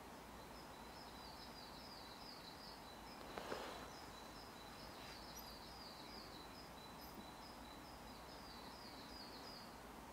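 Faint, high-pitched bird song in the forest: a long series of short, thin chirping notes in quick little groups. A brief rustle comes about three and a half seconds in.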